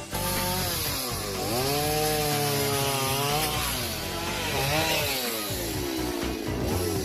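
Chainsaw cutting firewood, its engine pitch dropping and rising several times as it bogs into the wood and revs back up.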